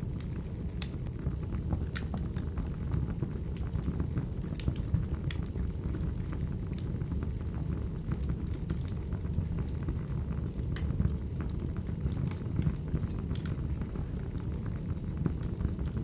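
Wood fire burning: a steady low rumble of flames with scattered sharp crackles and pops of firewood, a few each second.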